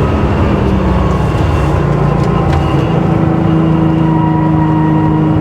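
Air-cooled flat-six of a 1979 Porsche 911 SC, converted to a 3.2-litre short-stroke engine with a special exhaust, running at steady revs on the road. Its engine and exhaust note holds an even pitch, filling out a little about halfway through.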